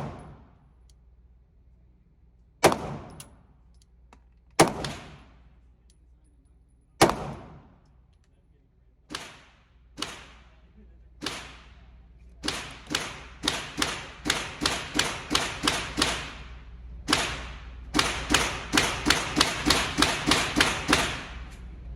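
Four loud single shots from a Glock 19 9mm pistol, about two seconds apart, followed by fainter, more distant gunfire that speeds up into rapid strings of about three shots a second.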